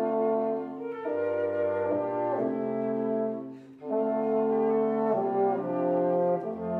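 Wind quintet of flute, oboe, clarinet, French horn and bassoon playing sustained chords that change every second or so, with a short break between phrases about three and a half seconds in.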